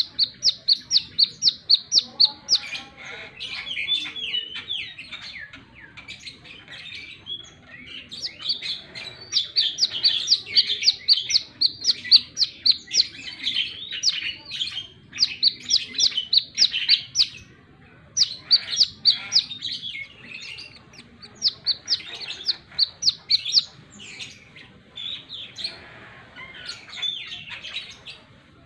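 Brown-throated sunbird singing: bouts of rapid, sharp high chips, about five a second, alternating with lower jumbled twittering phrases.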